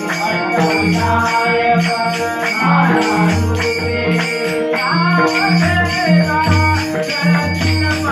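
Devotional bhajan music: a steady low drum beat under held melodic tones, with jingling hand percussion and singing voices joining about five seconds in.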